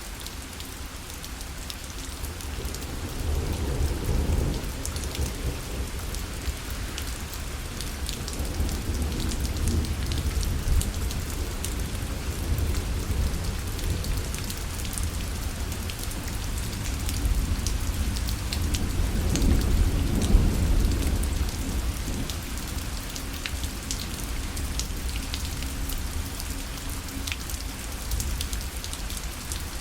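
Steady rain falling on a parasol, with many fine drop ticks, and thunder rumbling low in two swells, about four seconds in and again near twenty seconds.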